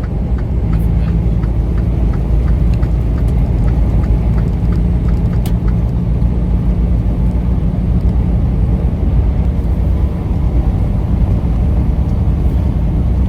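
Steady low engine and road rumble inside a moving truck's cab. A light, regular ticking, about three times a second, runs through the first half and stops around six seconds in.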